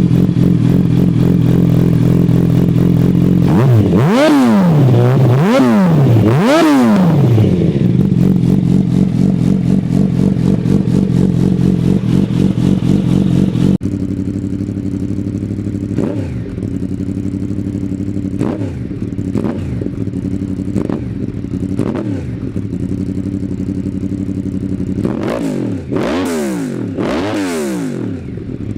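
Yamaha R1 inline-four sport bike engine idling through its exhaust and revved with quick throttle blips: three sharp revs a few seconds in, then, after a cut to another bike, a steady idle broken by several short blips and a fast run of revs near the end.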